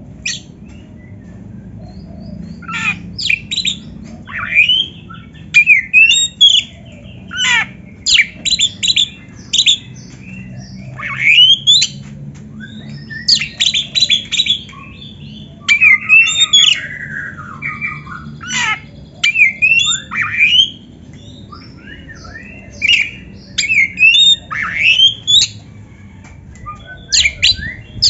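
Oriental magpie-robin (kacer) singing: a run of short, loud whistled and scratchy phrases, many rising sharply in pitch, coming every second or so with brief pauses between them, over a faint low hum.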